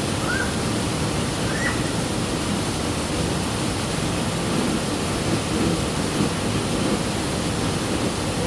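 Rushing water: a steady, unbroken wash of falling or flowing water.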